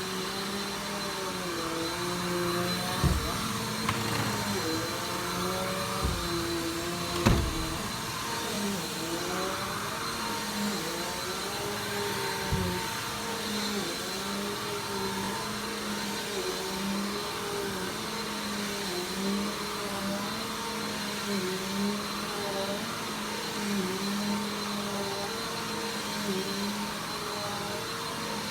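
Vacuum cleaner running steadily, its motor pitch dipping and rising about once a second as it works. A few short knocks come in the first half.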